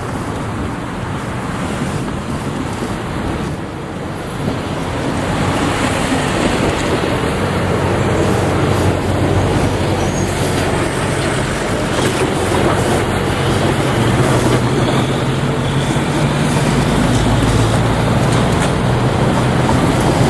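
Diesel locomotive engine approaching, its low drone growing steadily louder from about five seconds in.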